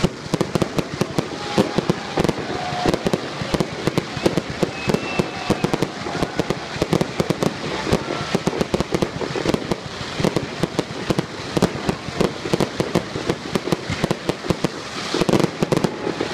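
Fireworks display: aerial shells bursting, a dense, continuous run of sharp bangs and crackles with no letup.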